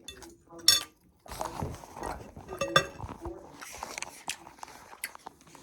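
Eating sounds close to the microphone: a utensil clicking and scraping on a plate, with chewing and mouth noises.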